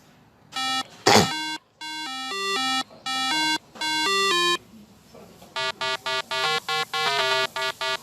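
Simple electronic ringtone-style tune of single beeping notes, a few slow held notes followed by a quicker run of short notes from about halfway in. A short sharp noise cuts in about a second in.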